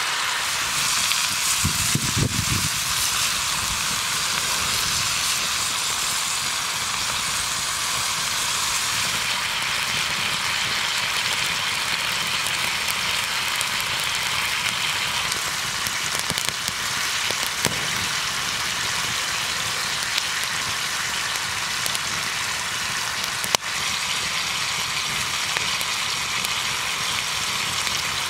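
Beef slices, mushrooms and butter sizzling steadily in a hot pan. There is a soft low thump about two seconds in and another later, and one sharp click near the end.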